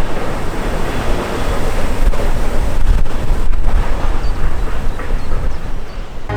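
Train passing close by: a loud, steady rumble of wheels and running gear on the track.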